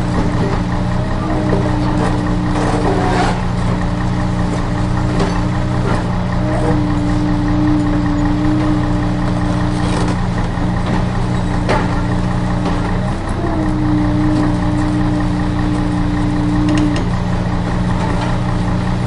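Steady, even sound of a truck engine idling, with a low pitched hum, and a few light clicks scattered through.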